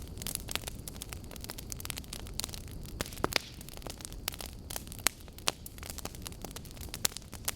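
Burning wood logs crackling and popping, with irregular sharp snaps over a steady low rumble of the flames; the loudest pops come about three, five and seven seconds in.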